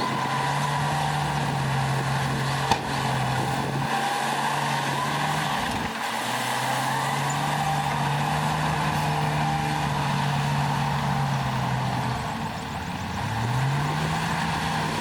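Heavy diesel engine of earthmoving machinery running steadily, with a single sharp click about three seconds in. Near the end the engine's pitch rises as it revs up.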